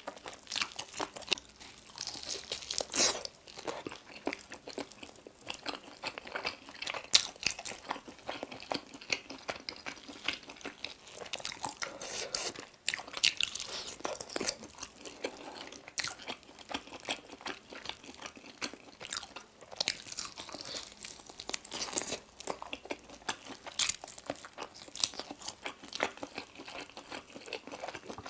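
A person biting and chewing sauce-coated chicken wings, with a dense, irregular run of crunches, crackles and wet chewing sounds.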